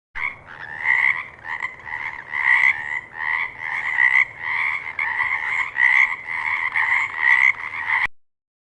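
Frog croaking in a steady run of calls, about two a second, cutting off suddenly near the end.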